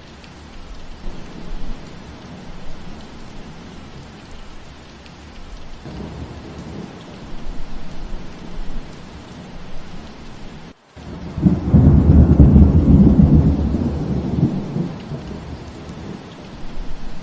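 Steady rain falling, with a loud low rumble of thunder rolling in about two-thirds of the way through and fading over a few seconds. Just before the thunder the sound cuts out for a split second.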